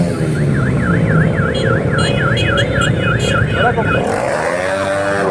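Motorcycles running in a group ride, with an electronic yelp siren warbling rapidly, about three to four cycles a second, over the engines' rumble. The siren stops about four seconds in, and a tone sweeping up and down in pitch follows.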